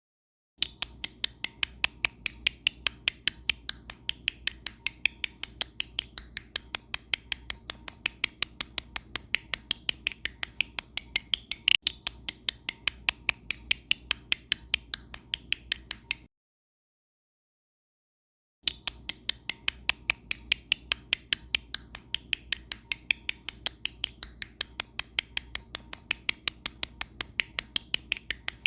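Rapid, evenly spaced clicking, about five sharp clicks a second, over a faint low hum. It cuts out completely for about two seconds in the middle, then resumes at the same pace.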